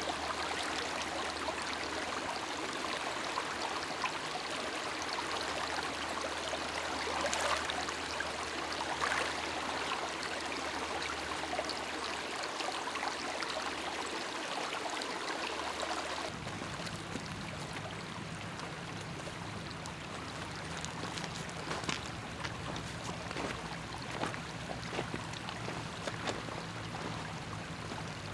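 Lake water lapping and trickling steadily at the shore, with a small abrupt shift in the sound about halfway through.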